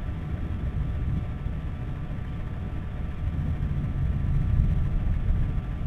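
Low rolling rumble of distant thunder, swelling slightly about four and a half seconds in.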